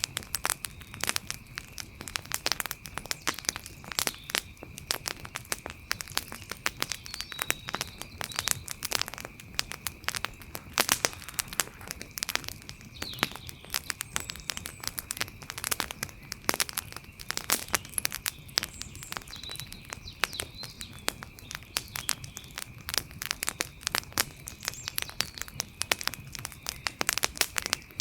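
Wood fire crackling: dense, irregular pops and snaps, several a second, some louder than others. Under it runs a faint steady high-pitched hum, with a few faint chirps now and then.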